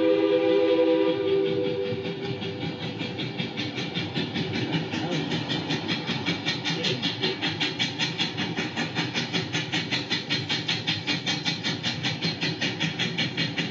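A train whistle chord that cuts off about a second and a half in, followed by a moving train's fast, even rhythmic beat of about five strokes a second.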